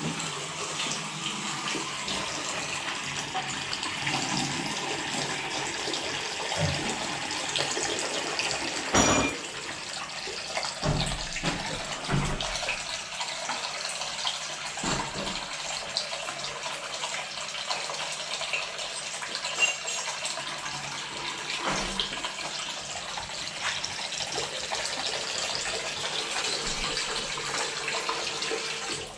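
A sink tap running steadily into the basin, with a few knocks and clunks along the way, and cutting off at the very end. The water is being run to test the sink and its drain in the hunt for a leak.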